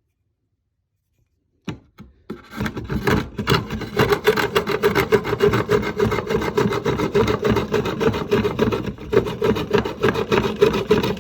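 Rapid, even rasping strokes on wood, about five a second, starting a little under two seconds in and running on steadily.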